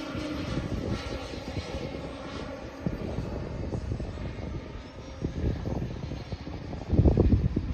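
The twin Kingtech K45TPG4+ model turboprop engines of a radio-controlled OV-10 Bronco running, a steady noisy whir, with a loud low rumble about seven seconds in.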